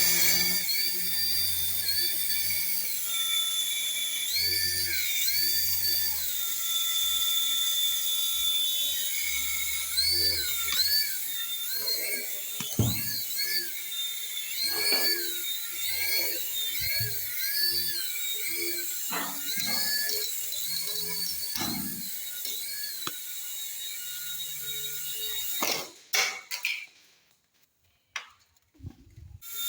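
Small electric rotor motors of a mini hand-sensor toy helicopter, whining high, the pitch repeatedly swooping up and dipping as the motor speeds up and slows. A few sharp knocks come in the middle, and near the end the whine cuts off, leaving about two seconds of near silence.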